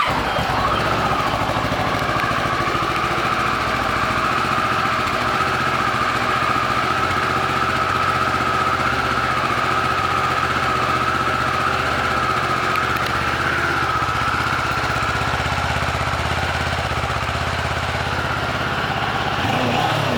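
2009 Kawasaki ER-6n's 649 cc parallel-twin engine idling steadily just after starting; right at the end the pitch begins to rise as it is revved.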